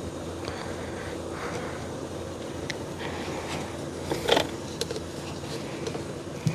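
Small clicks and handling noises as a fuel line retaining clip is worked onto a fuel pump assembly, with one louder clack about four seconds in, over a steady low hum.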